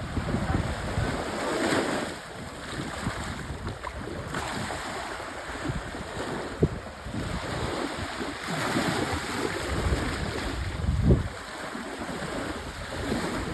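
Wind buffeting the microphone over the wash of open water, rising and falling in gusts, with a stronger gust about three quarters of the way through.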